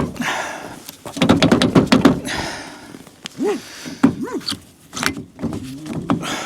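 Metal clanks and knocks from a trailer-hitch ball mount being worked and struck into the truck's receiver, with a quick run of knocks in the first two seconds and scattered ones after. It will not seat fully because the ball was flipped, so the locking pin no longer lines up with its recessed pocket.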